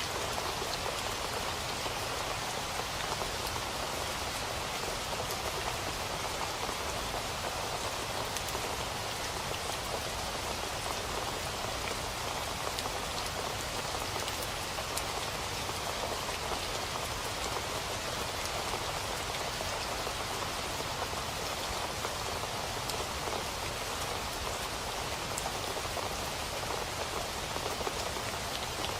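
Steady rain falling, an even hiss of drops on a surface with fine individual drop ticks, unchanging in strength.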